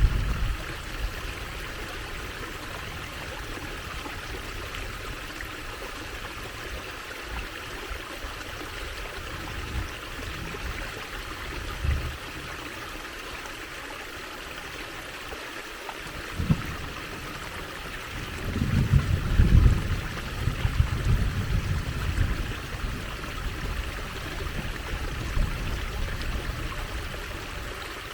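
Water trickling and running steadily in a small stream. Low rumbles come and go, briefly near the start and about 12 and 16 seconds in, and loudest for a couple of seconds past the middle.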